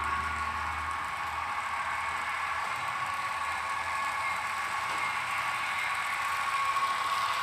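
HO-scale Intermountain DCC sound locomotive running on the layout track: a steady whir with a continuous tone from its onboard sound, the bell ringing but barely audible.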